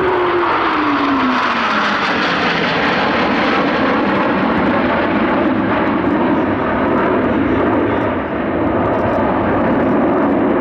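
Blue Angels F/A-18 Hornet jets flying past in formation: a loud, steady jet roar, with a whine falling in pitch over the first couple of seconds as they go by.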